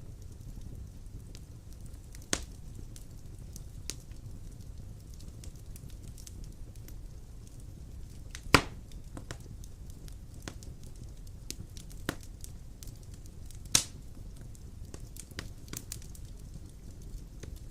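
Wood fire burning in a stone fireplace: a steady low rumble of flames with scattered sharp crackles and pops, the loudest pops about eight and a half and fourteen seconds in.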